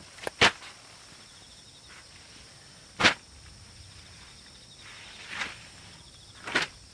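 Several sharp knocks: two loud ones about two and a half seconds apart, then two softer ones near the end. Under them runs a steady, high-pitched insect drone.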